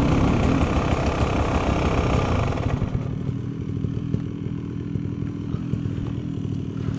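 Beta 300 RR two-stroke enduro motorcycle engine running on the throttle, then backing off about three seconds in to low revs near idle, with quick even firing pulses.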